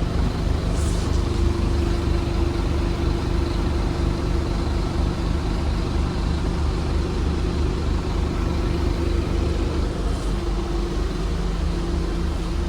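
A Scania N230UD double-deck bus's five-cylinder diesel engine running steadily, a deep drone with a steady whine over it.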